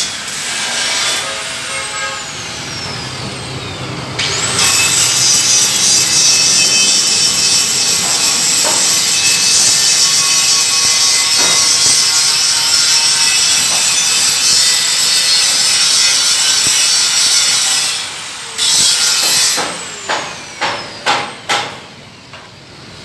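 Handheld grinder working on a truck body. It spins up about four seconds in and grinds steadily with a loud hiss, then winds down near the end. It is followed by a quick series of knocks.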